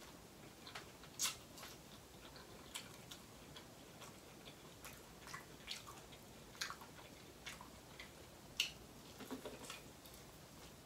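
Corn on the cob being bitten and chewed: faint, irregular sharp clicks and pops of the kernels.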